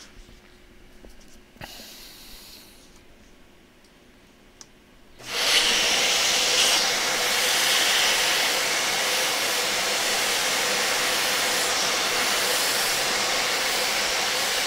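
A steady, even hiss that starts suddenly about five seconds in and keeps going.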